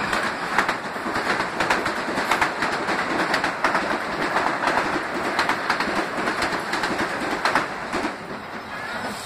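Metro-North M8 electric train pulling into the platform, its wheels clicking quickly over the rail joints. The clicks thin out and the sound eases near the end as the train slows.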